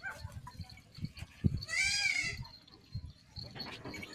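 A young goat bleating: one high-pitched call lasting under a second, about midway, with another starting at the very end, among a few light knocks and scuffs.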